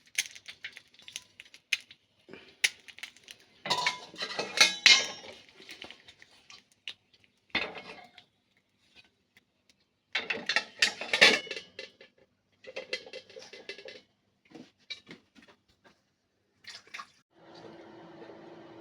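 Kitchen dishes, pans and cutlery clattering and clinking in irregular bursts, with sharp knocks in between. A steady hum starts near the end.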